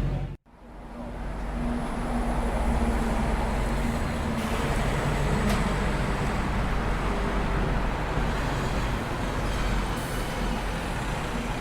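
City street traffic ambience: a steady wash of road noise with vehicle engines running. It cuts to silence just under half a second in, then fades back in.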